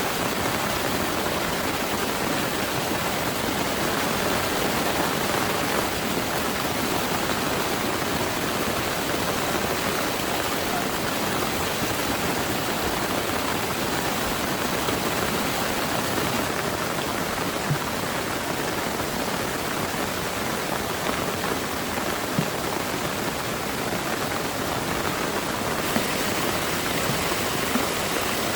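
Heavy rain pouring steadily, a dense even hiss with a few sharper drop hits now and then.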